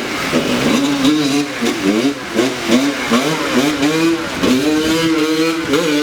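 Dirt bike engine revving up and down over and over as it is ridden, its pitch rising and falling in quick swells.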